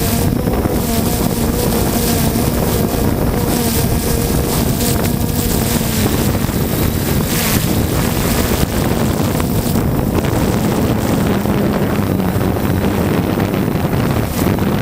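Heavy wind buffeting the microphone in strong gusts, with the steady hum of the 3DR Solo quadcopter's propellers underneath it, fading partway through and coming back.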